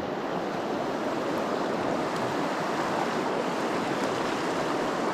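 Steady rush of fast, heavy river current.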